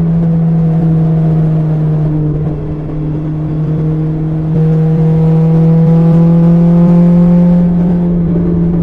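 BMW S1000XR's inline-four engine running through an Akrapovic exhaust while the bike is ridden at a steady cruise. It eases off slightly about two and a half seconds in, then gets louder from about four and a half seconds in, its pitch rising slowly as the bike pulls, before settling again near the end.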